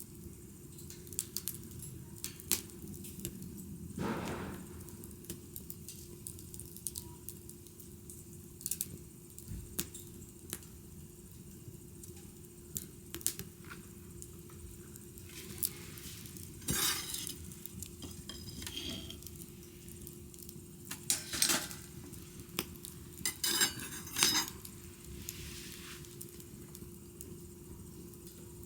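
Wood fire crackling, with scattered sharp pops and a few louder bursts of crackling in the second half, over a faint steady hum.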